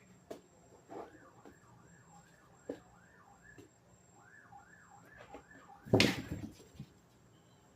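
A faint warbling electronic alarm rising and falling about three times a second, with a few light clicks. About six seconds in comes a loud, short rustling knock.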